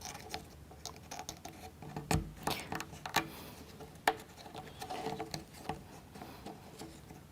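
Light clicks and taps of thin plywood model-kit parts being handled and fitted onto wooden toothpicks, with one sharper knock about two seconds in.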